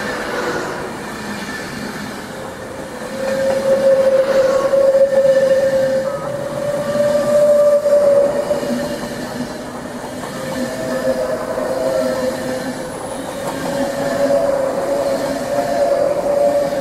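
A train passing on the line, a steady whining tone over rail noise that swells about three seconds in and holds, wavering slightly in pitch.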